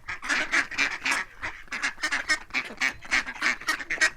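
Ducks quacking in a rapid, steady run of short calls, several a second.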